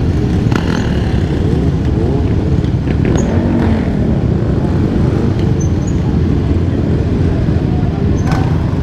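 Dirt bike engine running while riding, with a dense, steady low rumble and a few brief shifts in engine pitch about three seconds in.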